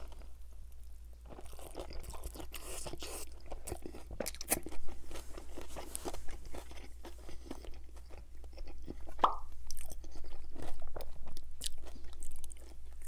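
Close-miked chewing of a mouthful of bacon, egg and cheese breakfast burrito with crispy bacon and a toasted tortilla: a run of small crunches and mouth sounds.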